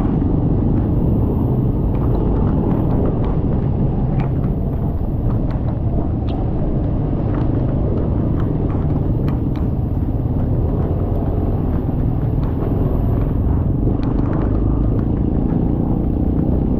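Steady low rumble of a motorcycle ride in the rain: engine, road and wind noise on the microphone, with scattered small ticks throughout.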